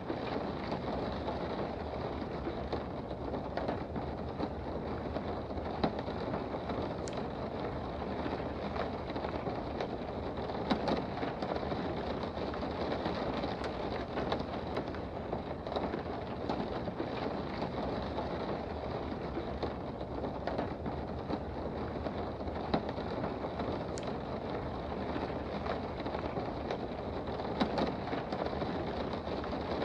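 Steady rain heard from indoors, a dense even rush with scattered sharper drops ticking now and then.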